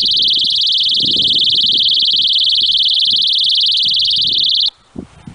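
Robocopp sound grenade personal alarm screaming after its pin is pulled: one loud, steady, high-pitched shriek that cuts off suddenly about four and a half seconds in.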